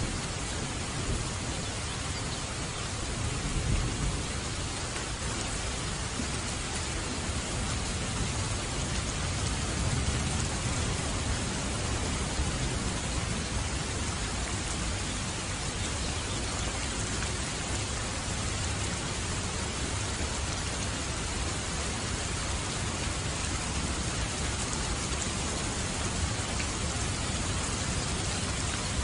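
Steady heavy rain, an even hiss without let-up, with a low rumble of thunder in the first few seconds that fades into the rain.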